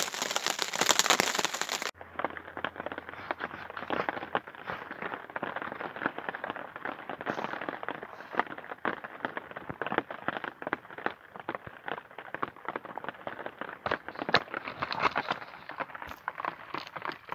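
Small wood fire crackling with many irregular sharp snaps and pops as fatwood kindling catches in a Dakota fire pit.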